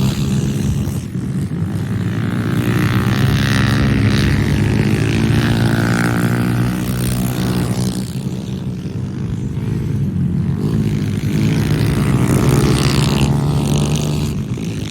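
Pit bike engine running, its pitch rising and falling with the throttle, with brief dips about a second in and again about eight seconds in.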